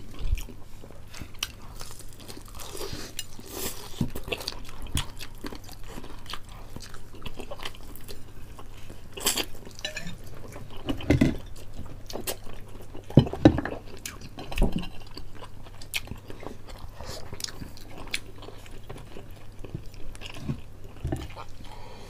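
Chewing and biting crispy fried chicken, an irregular run of crunches and wet mouth sounds, mixed with occasional clinks of a spoon and dishes; a few louder crunches come about midway.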